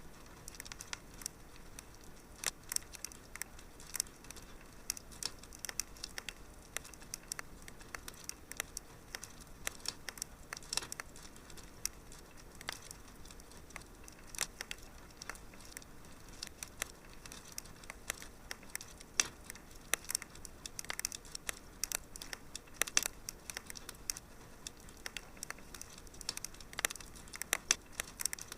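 Wood fire burning in a fireplace, crackling and popping: frequent sharp, irregular snaps over a soft steady hiss.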